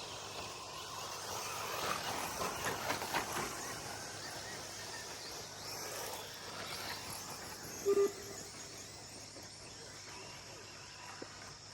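RC short course trucks running on a dirt track, heard as a steady diffuse rush of motors and tyres, with one short tone about eight seconds in.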